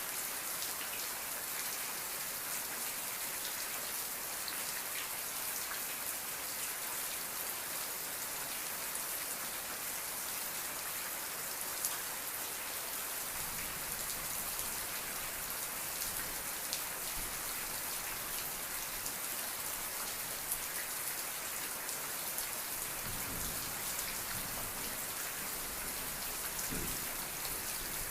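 Steady rain falling, a dense even hiss full of fine drop ticks with the odd sharper drip, and a faint low rumble now and then in the second half.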